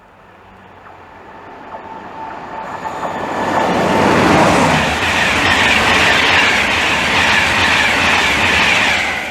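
LNER InterCity 225 express led by a Class 91 electric locomotive coming through the station. It grows louder over the first four seconds, the pitch drops as the locomotive goes past, and a loud steady rush of coaches and wheels on the rails follows.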